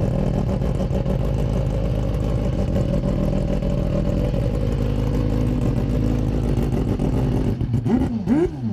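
Mazda RX-792P race car's rotary engine running loud and steady at a held speed. Near the end it gives way to electronic music with a rising swoop repeating about twice a second.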